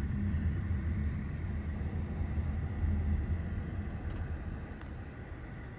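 Low, steady rumble of a car running, growing gradually quieter.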